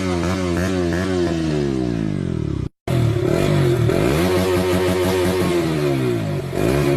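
Two 200cc single-cylinder motorcycle exhausts revved one after the other, with an abrupt cut between them just before 3 s. The first is blipped up and down in quick throttle stabs; the second rises and is held at high revs, with a brief dip near the end.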